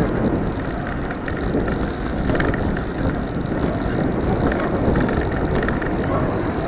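Steady road and traffic noise heard from a moving bicycle: a continuous rush with no single event standing out.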